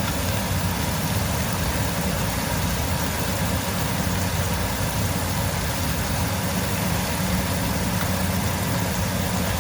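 Chicken strips sizzling steadily in hot olive oil in a frying pan on high heat, over a low steady hum.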